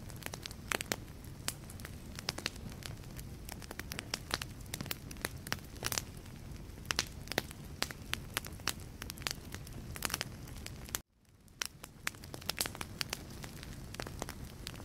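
Wood fire crackling in a fireplace: frequent irregular sharp pops and snaps over a low, steady rumble of flames. About 11 seconds in, the sound cuts out abruptly and fades back in within a second, like an edit or loop seam.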